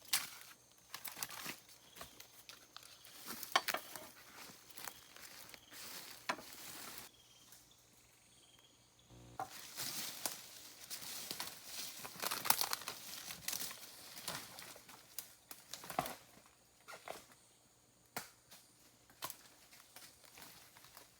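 Irregular rustling, crinkling and crackling of leaves and twigs being handled and pushed through, with a quieter pause about seven seconds in before a denser run of crackling.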